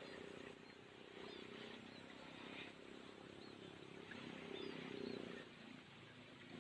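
Faint, short, high chirps of small birds, repeated every half second or so, over a low rumble.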